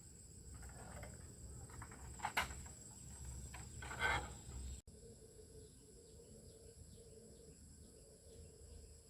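Steady high-pitched chirring of insects, with two brief clattering knocks in the first half. About halfway through the sound cuts abruptly, and afterwards a low steady hum runs under the insects.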